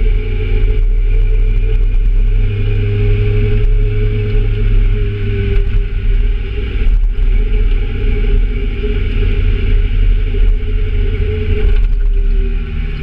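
Kawasaki Z750 motorcycle engine running steadily at an even pitch, its note shifting slightly near the end.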